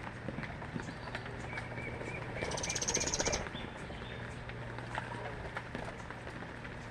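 Small birds calling, with a run of about six short chirps and, about two and a half seconds in, a loud rapid high trill lasting about a second. Behind them is a steady hiss with scattered ticks, the sound of rain falling.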